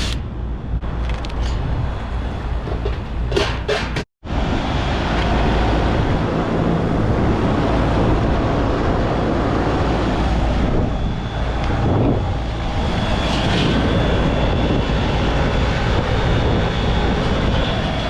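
Rooftop air-conditioning unit running, heard close with its panels open: a steady mechanical noise with a thin high whine, with only its first stage running and the second stage not coming on. A few clicks and knocks in the first few seconds, then the sound cuts out sharply for a moment before the running resumes.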